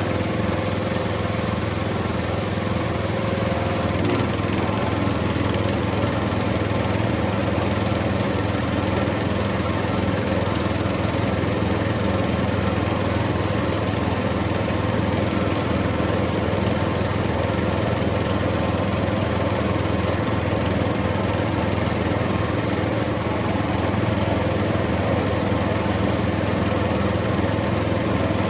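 A small motor running steadily with an even, unchanging hum.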